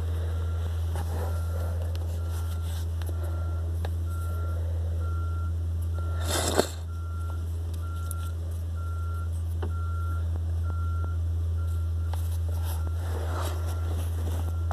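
A vehicle's reversing alarm beeping evenly about twice a second over a steady low engine rumble, with one brief loud rustle about halfway through.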